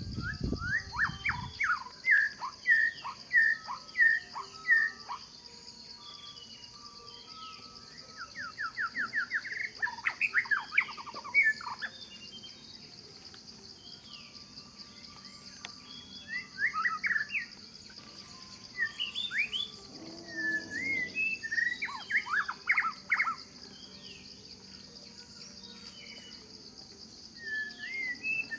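Birds chirping in repeated bursts of quick, rapidly repeated notes every few seconds, over a steady high-pitched insect drone. A brief low thump right at the start.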